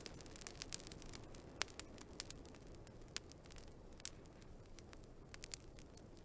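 Wood fire crackling: irregular sharp pops and snaps over a low, steady hiss of burning logs.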